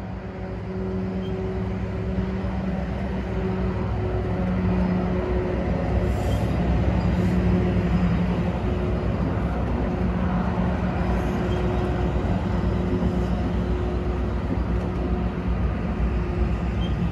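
A diesel-hauled NJ Transit commuter train running, with an engine hum over a rumble. It grows louder over the first several seconds, then holds steady.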